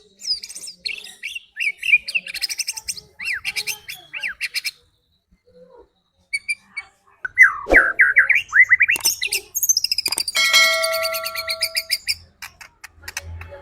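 White-rumped shama (murai batu) singing in fast, varied bursts of whistled and chirped phrases, with a short pause partway through. Near the end it holds one long buzzy note.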